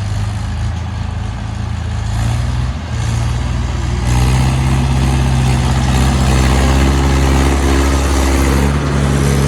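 Tractor diesel engine running steadily, then picking up load or revs about four seconds in and holding at the louder, fuller note.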